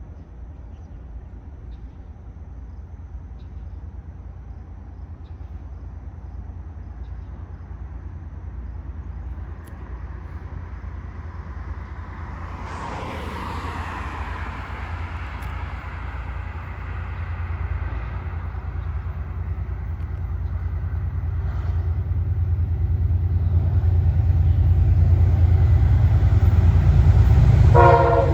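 Amtrak P32AC-DM diesel locomotive approaching: a low engine rumble that grows steadily louder, with a brief rushing swell about twelve seconds in. In the last half second its horn starts to blow, several tones at once.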